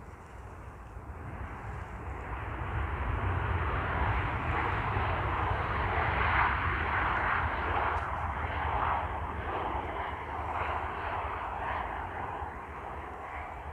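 Airliner engines passing by, swelling over the first few seconds, loudest around the middle, then slowly fading.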